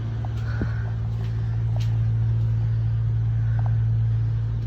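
Steady low mechanical hum, one unchanging pitch with faint overtones, with a few faint ticks over it.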